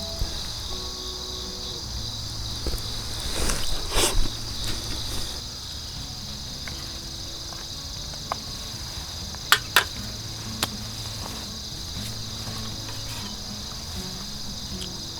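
Autumn insects chirring steadily in a high, even band. A few sharp clicks or knocks cut through: a loud cluster about four seconds in, and three near the ten-second mark.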